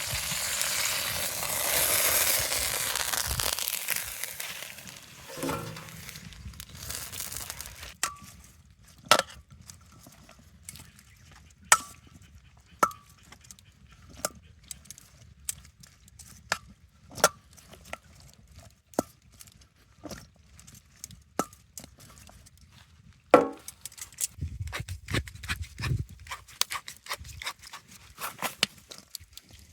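Cooking sounds: a hiss that fades out over the first few seconds, then scattered sharp clicks and clinks of utensils and dishes, some with a short ring, growing busier near the end.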